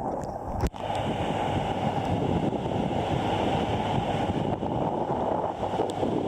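Ocean surf washing steadily, with wind buffeting the microphone; the sound is muffled and dull. It breaks off sharply for an instant less than a second in.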